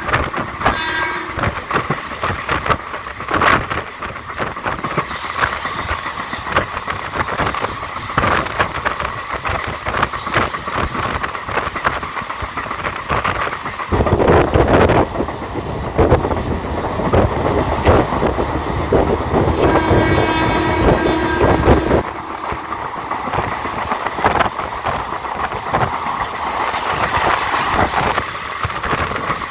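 Passenger train running on the rails, heard from on board, its wheels clattering over rail joints, with a louder, heavier rumble in the middle. The horn sounds briefly about twenty seconds in.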